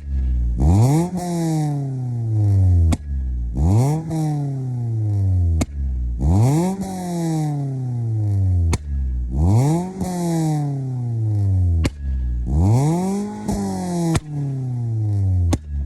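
Ford Fiesta ST150's 2.0-litre four-cylinder engine revved five times, each rev climbing sharply in pitch and falling back over a couple of seconds, with a short sharp crack between revs.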